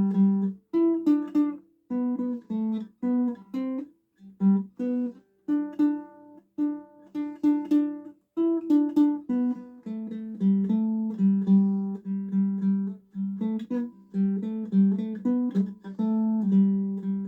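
Solo ukulele playing a melody of picked notes and chords, with a few brief pauses between phrases.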